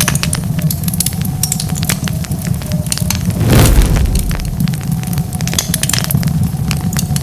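Wood fire crackling, with many sharp pops and snaps over a steady low rumble of flames. About halfway through comes one louder, longer burst of noise, like a gust or a flare-up.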